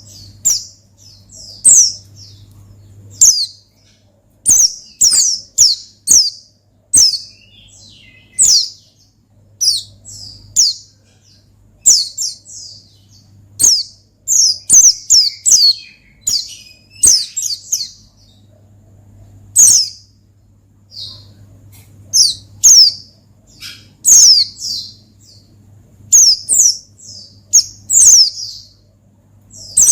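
White-eye (pleci) singing a fast, busy wild-style song: short, high, downward-sliding chirps in quick irregular clusters. A faint steady low hum runs underneath.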